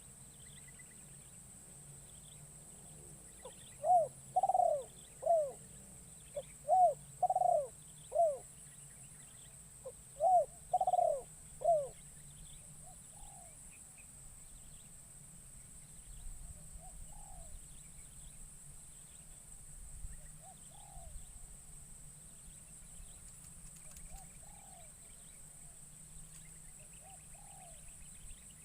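Spotted dove cooing: three loud phrases of a few short coos each over several seconds, then fainter coos repeating at intervals, from a caged decoy bird calling to lure wild doves. A steady high insect drone runs underneath.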